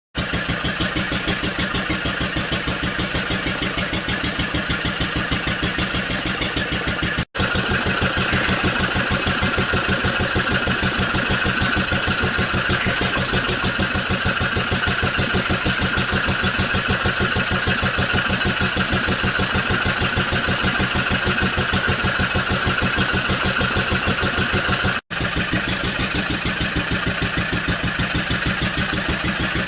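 Compressors running in turn, each with a steady, fast pumping pulse, with abrupt breaks about 7 and 25 seconds in where one gives way to the next.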